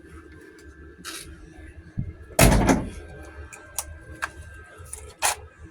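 Workshop handling noises: scattered clicks and knocks, with one loud clunk lasting about half a second a little under halfway through.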